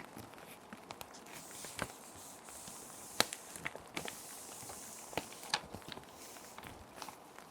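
Plastic sheet protectors crinkling and rustling as paper sheets are slid into them, with scattered sharp crackles, over a steady background of rain.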